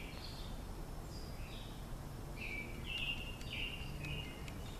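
Songbirds singing: short chirping phrases repeated several times, clearest a little past the middle, over a low steady background rumble with a few faint ticks.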